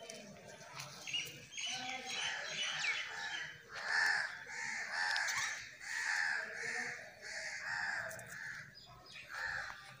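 Birds calling in a long run of repeated calls, about one a second, loudest about four seconds in.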